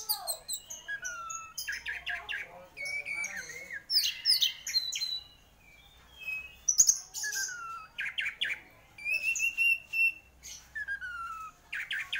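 Orange-headed thrush (anis merah) in full song: a varied run of whistled phrases, some sliding down and some rising, mixed with quick sharp clicking notes and short pauses between phrases.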